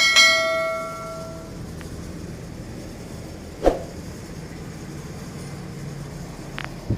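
A single bright ringing strike that dies away over about a second and a half, then one dull knock about halfway through, over a steady low hum.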